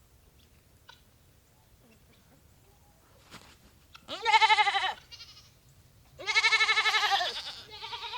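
Nigerian dwarf goat bleating: three loud, wavering calls, the first about four seconds in and the other two back to back near the end.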